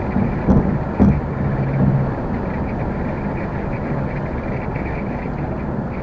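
Car engine and road noise from a car in motion: a steady low rumble, with two short thumps about half a second and a second in, followed briefly by a steady low engine note.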